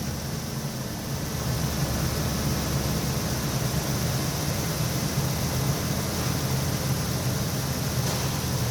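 A 5.4-litre Ford V8 from a 2006 F250 running steadily, with no revving, on an engine test.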